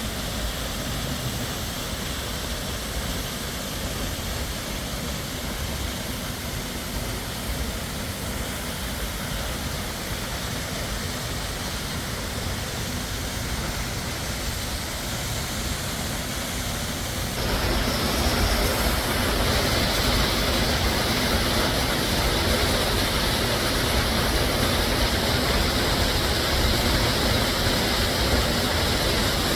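Steady rush of falling water from a waterfall. About two-thirds of the way through it suddenly turns louder and brighter.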